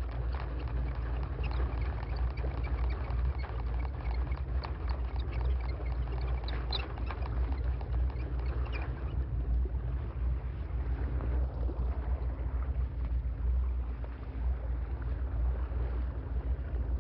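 Steady low rumble of the boat's engine running while trolling, with scattered light clicks and small splashy sounds through the first half or so.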